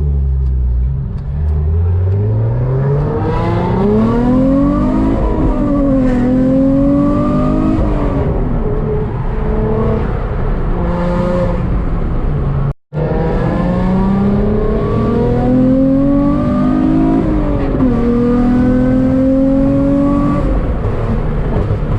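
A sports car engine accelerating hard, its pitch climbing and dropping back at each gear change, in two runs split by an abrupt cut about 13 seconds in.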